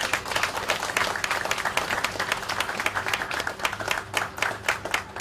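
Audience applauding: many hands clapping densely.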